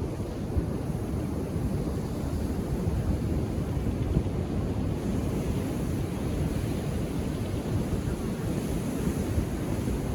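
Ocean surf breaking on a beach: a steady, low rumble of waves.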